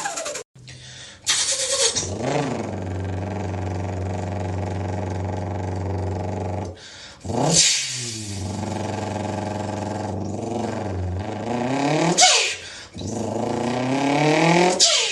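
Car engine revving and accelerating. Its pitch rises and falls several times, with steady stretches between, and it breaks off sharply a few times.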